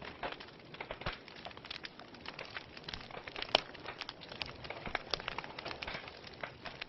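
Fireplace fire crackling, with irregular sharp pops over a soft steady hiss; one louder pop about halfway through.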